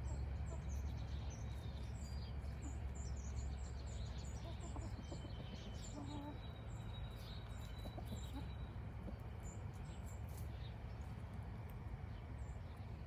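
Small birds chirping: many short, high chirps in quick succession, with a thin steady whistled note in the middle, over a steady low rumble.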